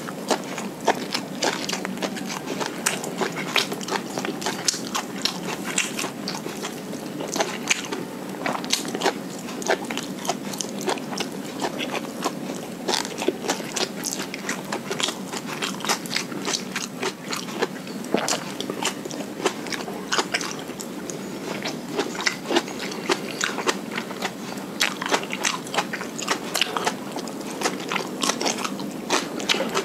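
Close-miked chewing of a mouthful of fried rice eaten by hand: a continuous run of small wet clicks, smacks and crunches with no pause.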